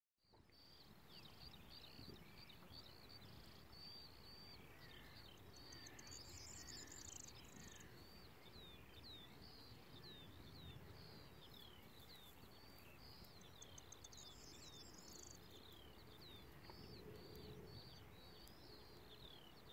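Faint meadow ambience: a bird chirping over and over in short falling notes, with a high buzzing insect trill twice, about a third and three quarters of the way through.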